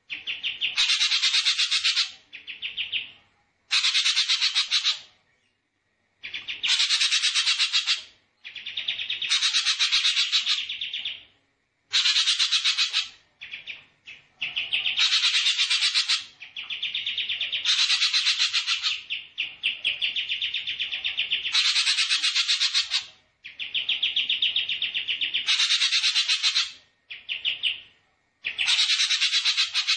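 Songbird master recording: a bird sings a series of rapid, buzzy trills, each about one to two seconds long with short pauses between. Some trills run on into a softer, lower-pitched trill.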